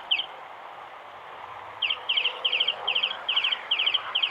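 Bird chirping: two quick chirps, then from about two seconds in an even run of short high chirp clusters, two or three a second.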